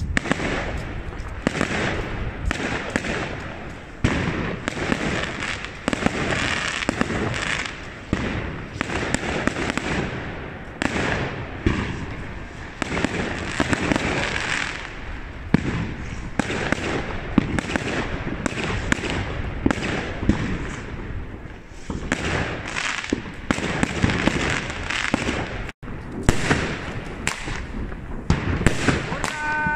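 Many fireworks going off at once: a continuous, irregular barrage of bangs and crackling from aerial shells and rockets bursting overhead.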